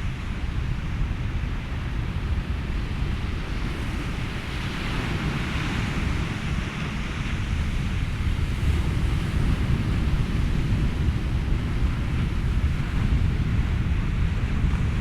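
Ocean waves and wind blended with white noise: a steady rush over a deep low rumble, swelling a little about a third of the way in.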